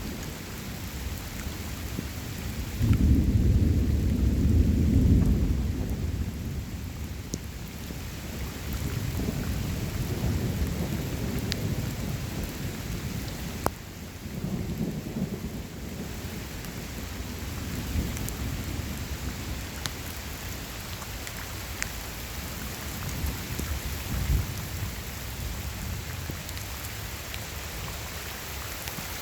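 Steady rain with rolls of thunder: a loud low rumble breaks in about three seconds in and fades over several seconds, followed by softer rolling rumbles and a sharp crack near the middle.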